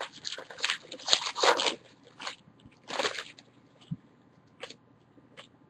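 Wrapper of a jumbo baseball card pack crinkling and tearing as the pack is opened: quick, irregular crackles for about two seconds, then a few scattered crinkles.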